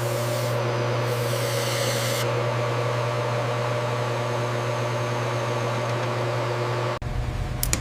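A steady machine hum with a constant low drone, a few steady higher tones and a hiss. About seven seconds in it cuts abruptly to a rougher, lower rumble.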